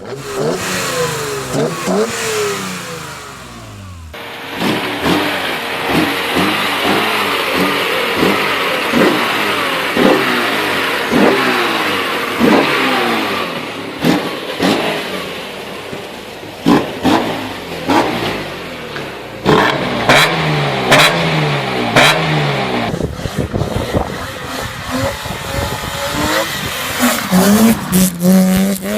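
BMW S50B30 straight-six engine of an E36 M3, with individual throttle bodies, revving hard again and again, its pitch climbing and dropping sharply with each blip. The sound is a run of separate clips, and it changes abruptly about four seconds in.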